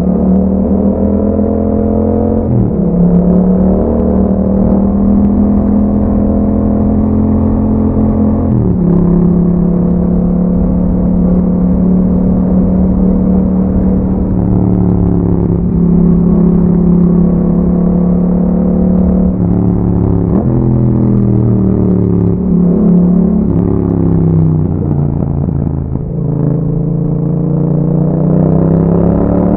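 A 2021 Yamaha MT-07's parallel-twin engine running under riding through an Akrapovic exhaust fitted with dB killers. The engine note holds steady revs for long stretches, with abrupt pitch changes at shifts. Near the end the revs fall away and then climb again.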